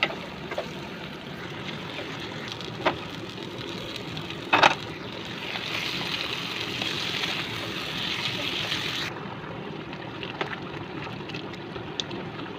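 Curry cooking in a pan: steady sizzling and bubbling with a few sharp clinks of a utensil against the pan. The hiss grows louder about five seconds in and drops away abruptly about nine seconds in.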